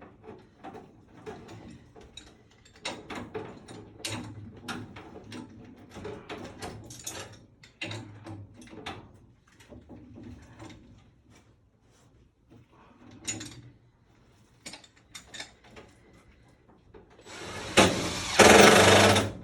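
Hand work on a furnace replacement: scattered metallic clicks, taps and knocks from tools and parts being handled, then a loud burst of about two seconds from a power tool near the end.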